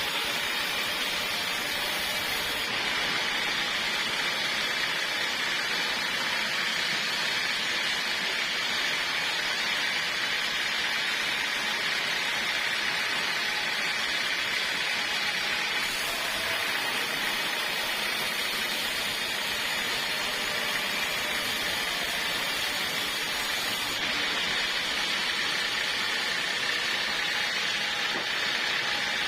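Sawmill saw running steadily, a continuous mechanical noise with no pauses.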